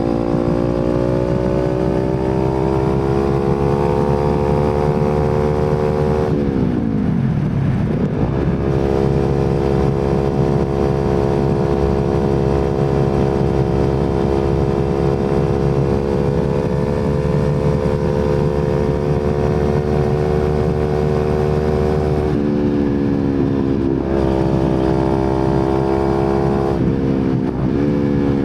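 Kawasaki Z250 parallel-twin engine running through an aftermarket slip-on silencer while riding: the engine note climbs slowly, dips sharply and recovers about six to eight seconds in, holds steady for a long stretch, then dips and recovers several times near the end.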